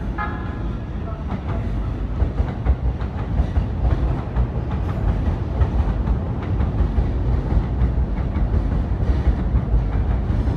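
JR East E233-series commuter electric train running past, its wheels clacking rhythmically over rail joints and points as the cars go by under a steady low rumble.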